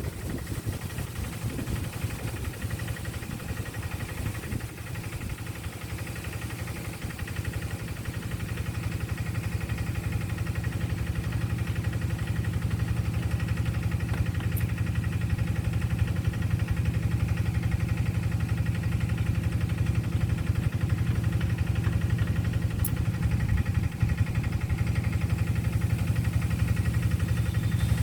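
A motor engine idling steadily, growing a little louder over the first half and then holding even.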